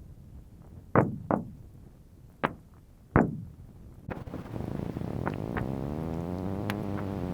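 Lake ice cracking as it expands and contracts under the morning sun: four sharp cracks in the first half, two of them close together about a second in. About four seconds in, a steady low drone with several pitched tones sets in.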